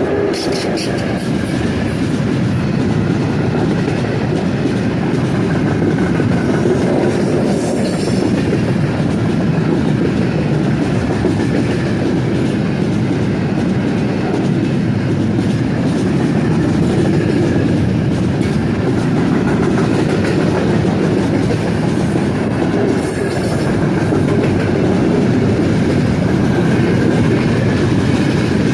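Loaded freight train rolling past at speed, a steady rumble and clatter of wagon wheels on the rails.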